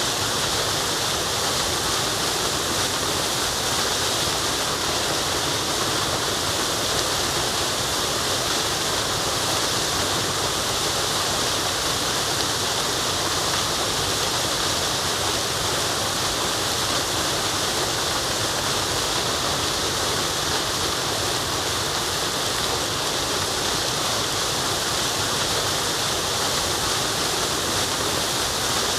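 Waterfall rushing in a steady, unbroken hiss, with no changes or separate splashes.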